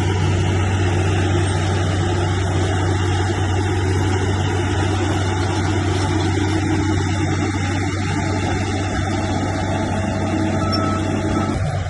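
Diesel engine of heavy earthmoving machinery running steadily, a constant low hum with no change in pitch.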